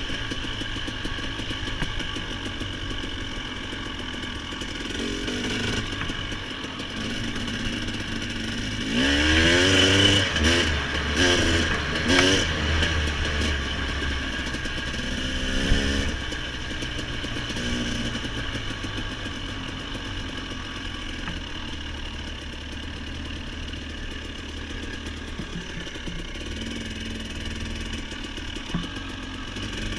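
Motorcycle engine running steadily, revved up several times for a few seconds about nine seconds in, then settling back to a steady run.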